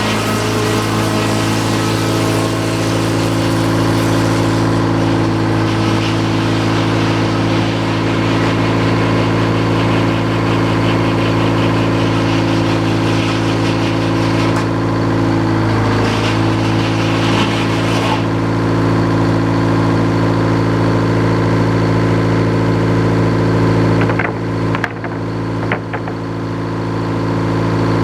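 Sawmill engine running steadily at a constant speed, with a few brief clicks and a short dip in level a little before the end.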